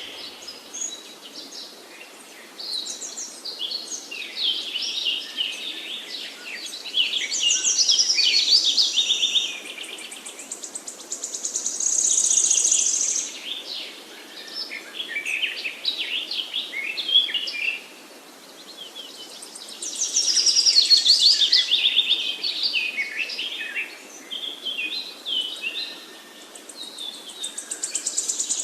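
Several songbirds singing at once, with many overlapping chirps and trilled phrases, the louder phrases coming every few seconds. A faint steady hiss runs underneath.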